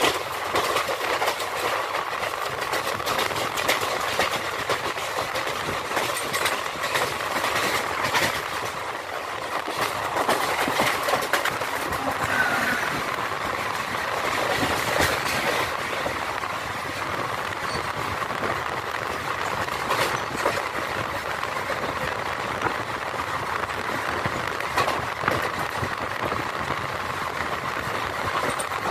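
Passenger train running at speed, heard at an open coach door: a steady rush of wheel, rail and wind noise with irregular clicks as the wheels cross rail joints.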